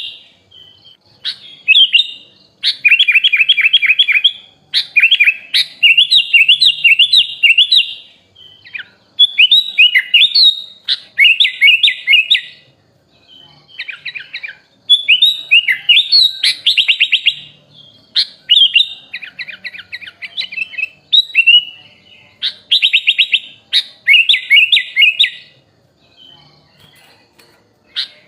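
Sooty-headed bulbul (kutilang) singing a loud, varied song of fast repeated notes, with phrases copied from other birds. The song comes in bursts of one to three seconds with short pauses between, and only faint notes in the last couple of seconds.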